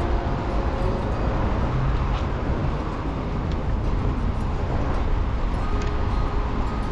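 Steady road noise while riding a bicycle along a city road: low wind rumble on the microphone mixed with passing traffic.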